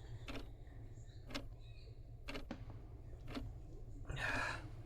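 Faint, regular ticking about once a second over a low steady hum, then a short hiss about four seconds in.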